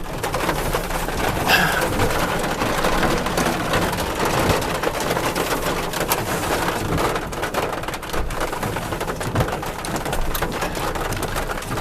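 Heavy rain pelting a parked car's roof and windows, heard from inside the car as a steady dense patter of countless drops.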